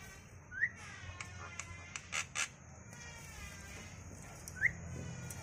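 Pet bird calling: runs of falling whistled notes, a short rising chirp about half a second in and again near the end, and a few sharp clicks around the middle.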